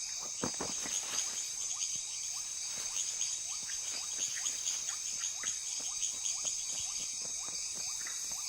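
Steady high-pitched insect chorus, with many small quick chirps or clicks, several a second.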